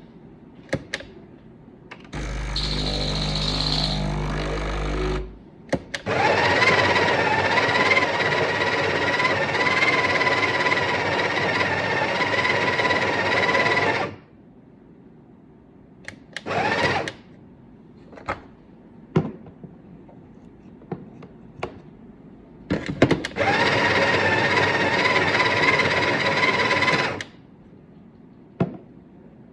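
Bean-to-cup coffee machine grinding beans: two runs of steady whirring grind with a steady whine, the first about eight seconds and the second about four. A shorter, lower humming run comes before them, a brief burst falls between them, and there are scattered clicks.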